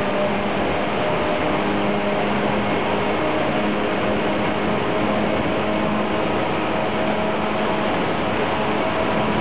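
Tokyu 8500-series commuter train heard from inside the car while running between stations: a steady, dense rumble of wheels on rail and running gear, with a few faint steady tones over it.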